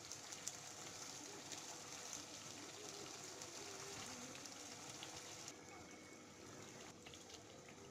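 Chicken pieces frying faintly in oil and spice paste in a pan at the kosha (browning) stage, a low sizzle and bubble with a few light spatula scrapes. The sizzle turns duller about five and a half seconds in.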